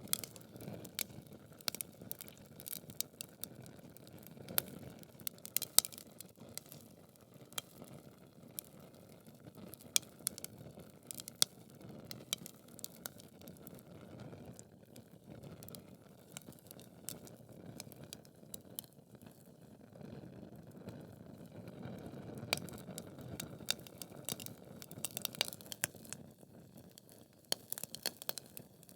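Wood fire burning in a fireplace: logs crackling with many sharp, irregular pops and snaps over a soft low rush of flames.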